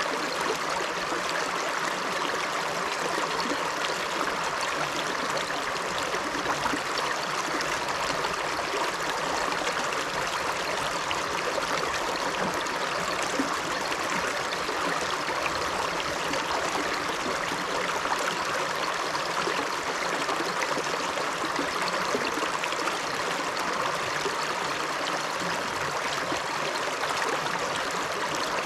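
A river running over rocks: a steady, even rush of flowing water with some trickling and gurgling.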